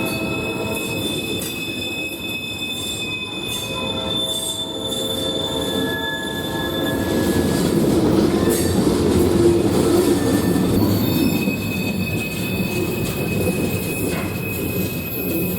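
A slow freight train, an SMS Rail Lines move led by a GE B23-7 locomotive, passing with its steel wheels squealing in several steady high tones over a low rolling rumble. The rumble swells loudest about halfway through.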